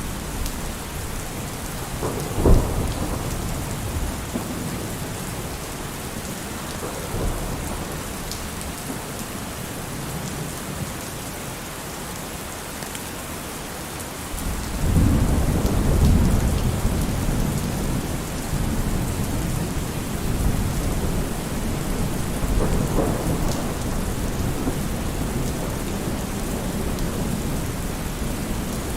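Steady heavy rain with thunder. A sharp crack comes about two and a half seconds in, a long low rolling rumble builds about halfway through and fades slowly, and a weaker rumble follows later.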